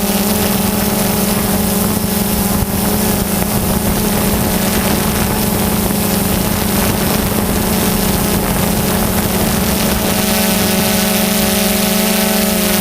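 DJI Phantom 2 quadcopter's motors and propellers running in flight: a steady buzzing hum with several higher tones over a hiss of rushing air. Extra higher tones join about ten seconds in.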